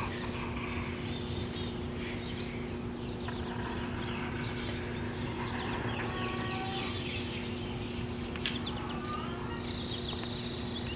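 Small birds chirping in short, quick calls again and again, over a steady low hum and constant background noise.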